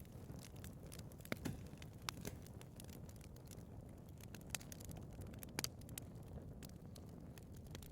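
Wood fire burning in a fireplace: a steady low rumble and hiss with irregular crackles and pops, a few of them sharper and louder than the rest.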